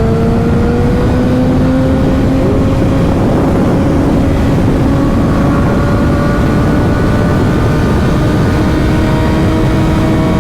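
Motorcycle engine running at speed, its pitch climbing slowly and steadily, under a loud rush of wind on the microphone.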